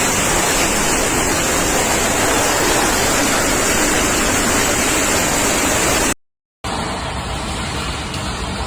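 Steady loud rushing of storm-force wind, heavy wind noise on the microphone, which breaks off to silence about six seconds in; half a second later a quieter rushing resumes.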